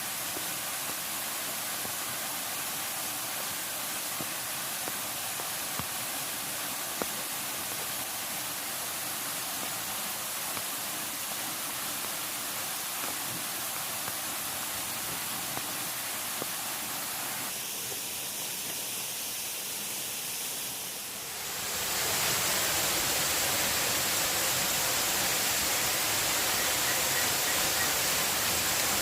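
Steady rushing water with a few faint clicks. It becomes louder and fuller about 22 seconds in.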